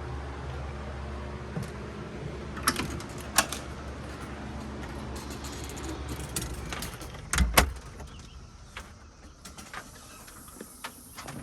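Car engine running at a steady low hum, with several sharp clicks. About seven seconds in comes a heavy thud like a car door shutting, after which the hum fades to a faint hiss with a few small ticks.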